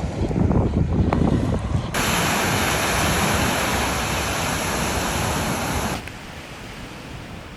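Wind buffeting the microphone with a low rumble, then sea surf washing ashore as a loud, even hiss that cuts off suddenly about six seconds in, leaving a quieter wash of waves.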